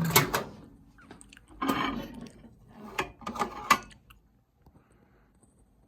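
Handling noises: clicks and rustling in three short bursts over the first four seconds, then near quiet.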